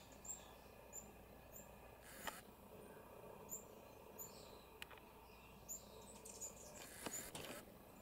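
Faint, high, short bird chirps, roughly one a second, with two brief bursts of noise about two seconds in and near the end.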